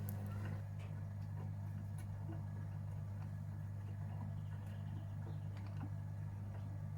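Gorenje UseLogic 65165 washing machine running mid-cycle: a steady electric hum that switched on just before, with a few light ticks and knocks from inside the machine.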